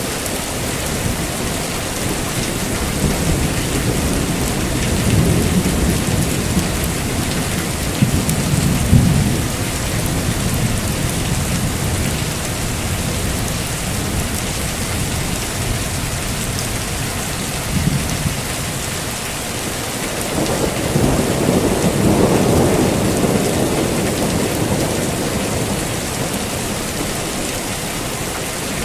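Heavy rain falling steadily, with rolls of thunder rumbling twice: a longer roll in the first third and another about three quarters of the way through.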